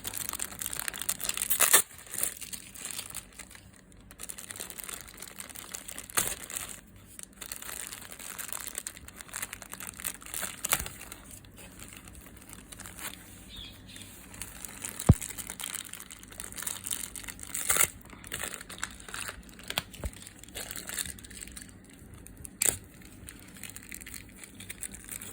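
Plastic packaging being handled and crumpled, crinkling and crackling irregularly, with a few sharp clicks.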